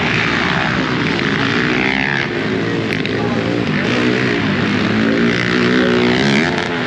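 Several small dirt bike engines running and revving together, their pitches rising and falling over one another.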